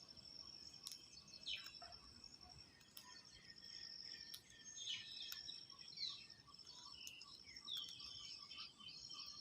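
Faint outdoor birds chirping in short calls and quick downward sweeps, over a steady, high, rapidly pulsing insect trill, with a few sharp clicks.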